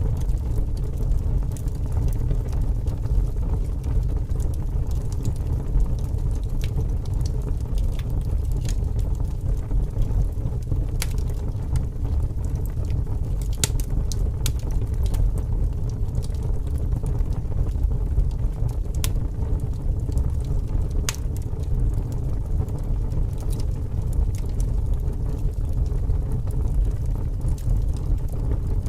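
Wood fire burning, with scattered sharp crackles and pops over a steady low rush of strong wind.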